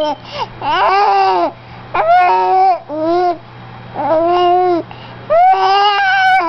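Four-month-old baby babbling and cooing: about five drawn-out vocal sounds in a row, each arching up and then down in pitch.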